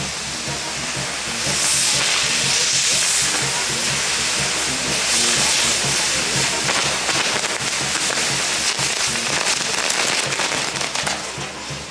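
Fireworks going off continuously: a dense run of rapid crackles with a sizzling hiss.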